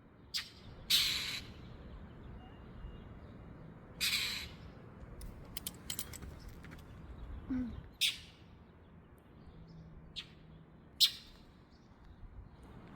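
A bird giving short, harsh squawking calls, about six of them at irregular intervals, over a faint steady background.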